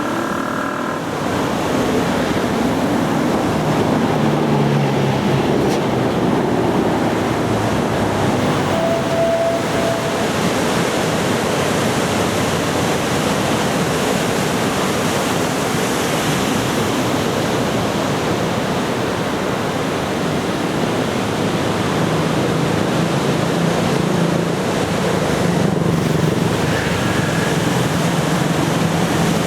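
Surf from a typhoon swell breaking and washing ashore, a steady rushing noise with wind on the microphone. A faint engine hum rises under it in the last several seconds.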